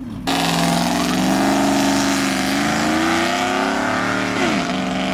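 A car's engine held at high revs during a burnout, with a loud hiss of spinning tyres. The revs dip briefly and climb again near the end, and the sound starts and stops abruptly.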